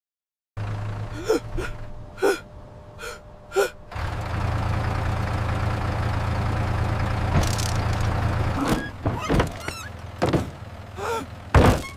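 Short startled gasps and cries from an animated character over a low hum, then a steady rumble for about four seconds, then more gasps.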